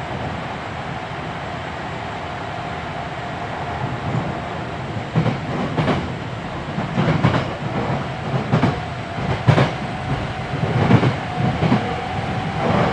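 Hankyu 7300 series electric train running, heard from inside the car with the recorder on the floor: a steady drone with a faint steady tone. From about four seconds in come a series of irregular sharp wheel clacks over track joints.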